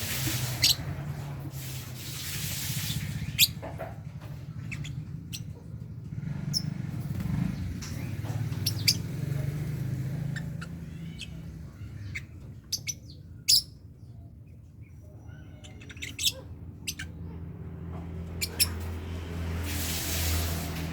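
Lovebirds giving short, sharp chirps and squawks at irregular intervals over a steady low hum, with a hissing noise at the start and again near the end.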